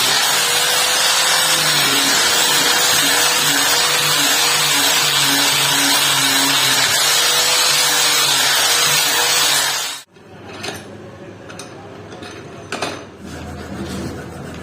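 Power tool running steadily under load, then switched off and stopping abruptly about ten seconds in. A few light knocks and clicks follow.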